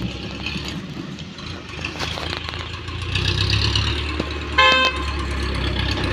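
A vehicle engine running with a low steady rumble, and a single short horn beep about four and a half seconds in.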